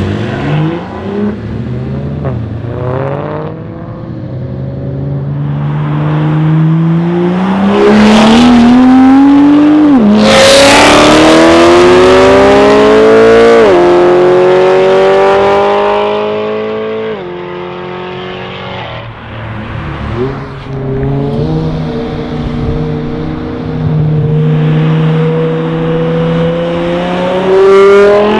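High-performance cars accelerating hard one after another. A BMW M3's V8 is the loudest, winding up through the gears with a sharp drop in pitch at each of three upshifts in the middle; after a steadier stretch, a BMW E60 M5's V10 starts to pull away near the end, its pitch rising.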